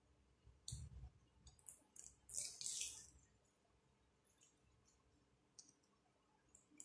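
Faint crisp crunches of someone chewing a fried chicken spring roll, clustered in the first three seconds, then near silence with a few faint ticks.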